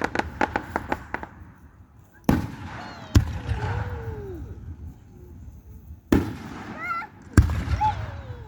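Aerial fireworks bursting overhead: a quick run of sharp crackling reports in the first second, then four heavy booms spread over the rest, each followed by a rumbling echo.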